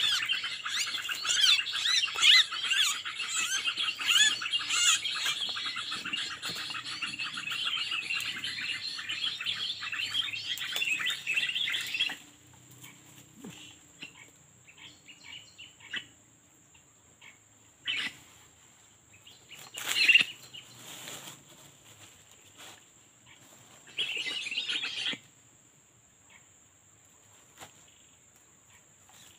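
Small birds chirping rapidly and continuously, then stopping abruptly about twelve seconds in; after that only a few short, separate calls.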